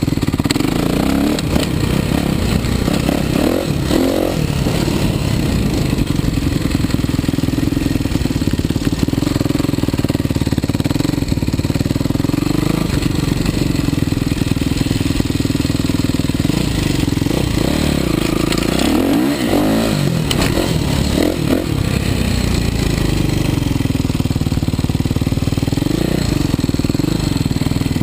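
Kawasaki KX450 motocross bike's single-cylinder four-stroke engine running while ridden. Its note rises and falls repeatedly as the throttle is opened and closed.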